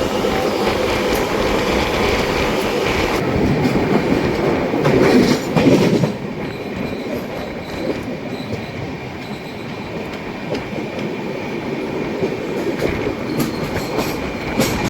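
Hyderabad–Mumbai Express passenger train running on the track: a dense, steady rumble of wheels and coaches with a thin, steady high tone over it. It swells louder for a moment about five seconds in, then runs on a little quieter.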